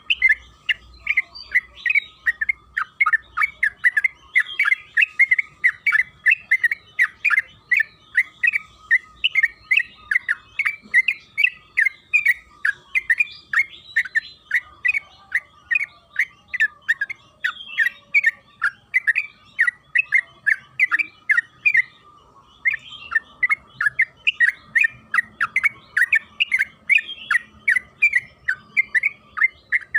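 Yellow-vented bulbul (trucukan) singing a long, fast run of short chattering notes, about three to four a second, with a brief pause about two-thirds of the way through.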